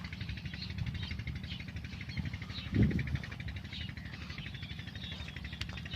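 Small birds chirping repeatedly over a steady low engine drone, with one short low sound about three seconds in.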